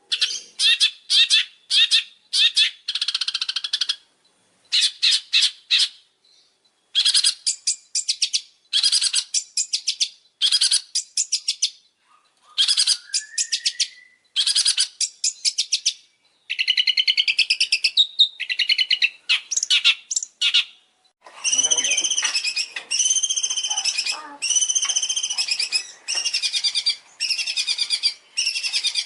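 Songbird song: loud, high-pitched chattering trills in quick bursts with short gaps, changing about two-thirds of the way through to repeated arched whistled phrases about once a second.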